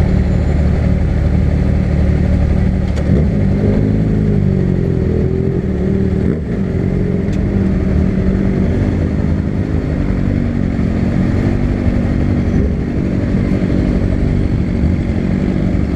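Honda CB300 motorcycle's single-cylinder engine running on the move, its pitch rising and falling as it revs about three to six seconds in, then running steadily.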